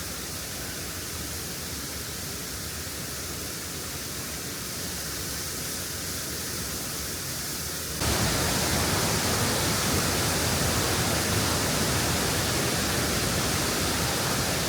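Steady rush of falling and running water from a waterfall and stream, jumping suddenly louder about halfway through.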